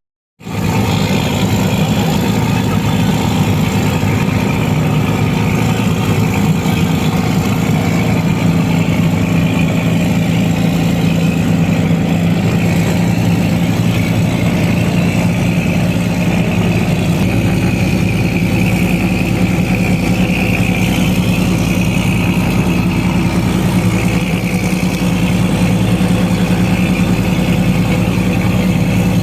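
A motor vehicle's engine running steadily at an even speed, with a steady low hum. It starts abruptly after a brief silence at the very start.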